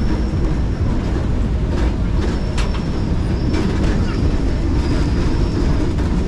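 Steam train rolling along the track: a steady low rumble with a thin high squeal that comes and goes and a few sharp clicks from the wheels on the rails.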